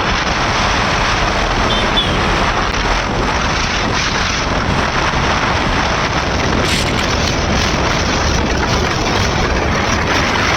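Steady rush of wind and tyre noise from a KTM RC390 motorcycle being ridden on a wet road in the rain.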